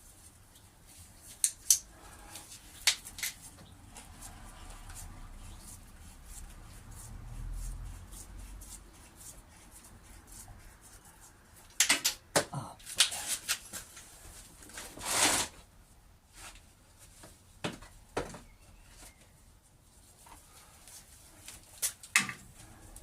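Intermittent clicks and knocks of hand tools on engine parts during work on a side-valve engine, with a busy cluster of knocks a little past the middle ending in a short scrape.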